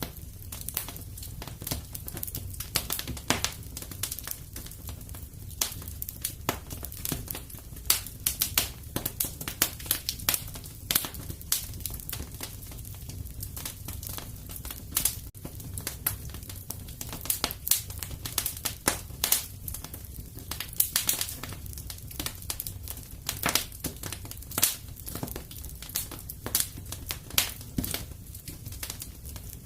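Wood fire burning in a fireplace: a dense, irregular run of sharp crackles and pops over a low, steady rumble of the flames.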